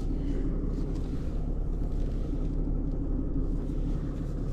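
Tow truck engine running steadily while driving, heard from inside the cab: an even, low rumble.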